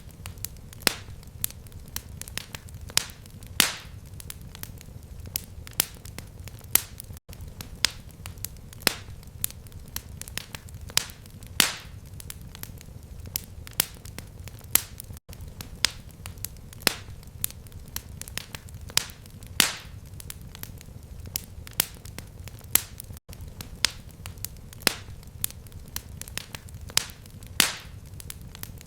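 Fireplace fire crackling: irregular sharp pops and snaps, several a second, over a low steady rumble, with a brief gap about every eight seconds.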